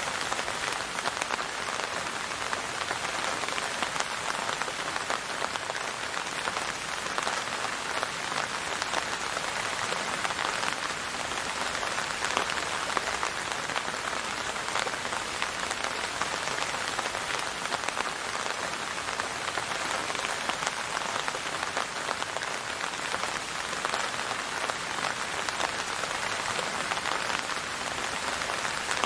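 Steady rain falling on a hard surface, a dense even patter of many drops with no letup.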